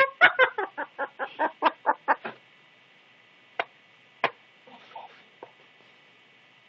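Pet parrot giving a rapid run of short calls, about six a second, that stops after about two seconds. Two sharp clicks follow, a little over half a second apart.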